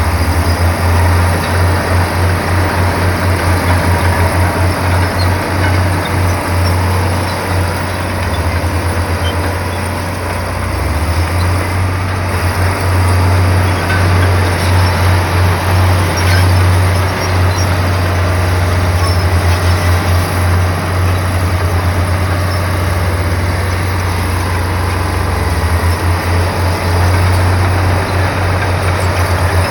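Komatsu bulldozer's diesel engine running, a heavy low throb that pulses in and out unevenly over a steady mechanical noise.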